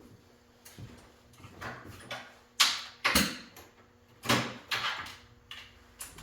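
Rummaging for a tyre inflator in a small room: a string of irregular knocks and clatters as objects are shifted about, the loudest a little under three seconds in, with more about half a second and a second and a half later.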